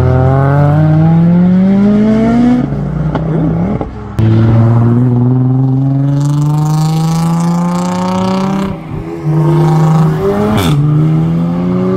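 Car engines accelerating hard under full throttle, the engine note climbing steadily in pitch in long pulls. Short breaks come about three seconds in and again near nine seconds, from gear changes or from a change of car.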